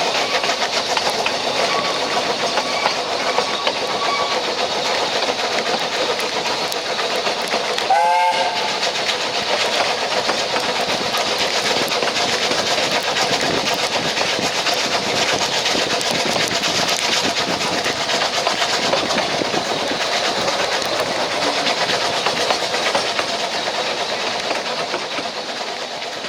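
Narrow-gauge steam train carriage running along the rails: a steady wheel-and-track rumble with some clickety-clack. About eight seconds in there is one short whistle note.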